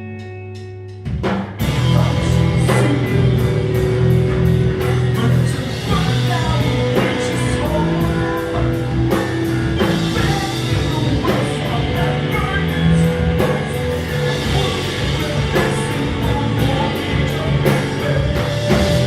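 Post-hardcore rock band playing live. A held guitar chord rings for about a second, then drums, bass and distorted guitars come in loud together, with steady cymbal and snare hits.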